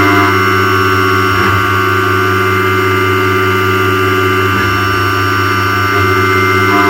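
Four-axis CNC milling machine machining at high speed: a steady whine made of several held tones over a low hum, with the lower sound changing briefly about a second and a half in and again about four and a half seconds in.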